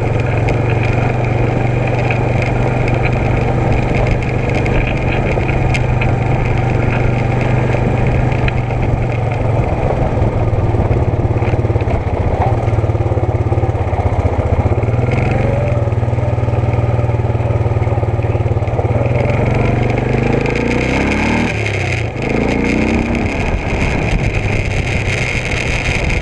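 ATV engine running during a trail ride, a steady drone whose pitch falls and rises a few times in the last third as it slows and speeds up.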